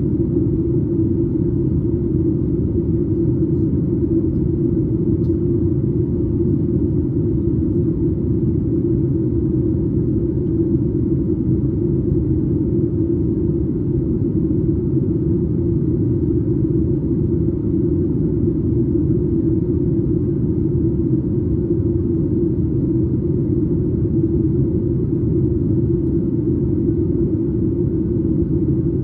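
Steady cabin drone of a Boeing 737 MAX 8 airliner in flight, heard from inside the cabin just behind the wing: the low, even rumble of its CFM LEAP-1B engines and the airflow over the fuselage, with a faint steady hum above it.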